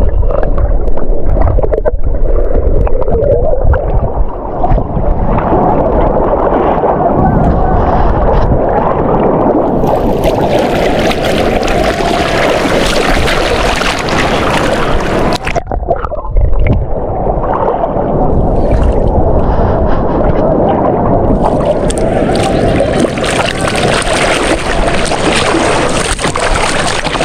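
Strong wind rumbling on the microphone with the sea in the background. The sound changes abruptly a few times, as between cuts.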